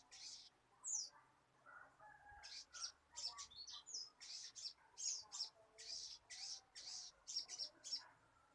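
Sogon bird calling: a run of short, raspy chirps at about two a second, broken by a few brief whistled glides. It is a bird still learning its song.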